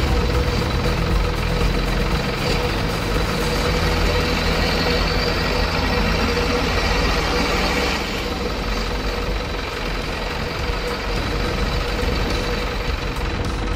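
A truck engine sound running steadily, with a constant whine over it; the sound eases a little about eight seconds in.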